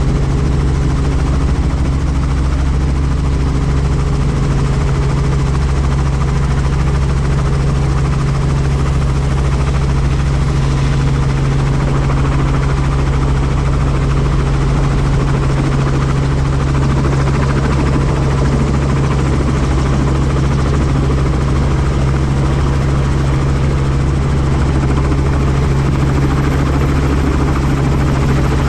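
Helicopter in flight, its engine and rotor making a steady, loud drone with a strong constant low hum.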